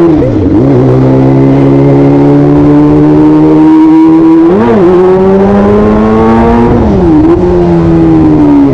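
Kawasaki ZX-25R's 249 cc inline-four engine running at high revs while riding. Its steady note dips and swings briefly in pitch three times, about half a second in, near the middle and near the end, as the throttle changes.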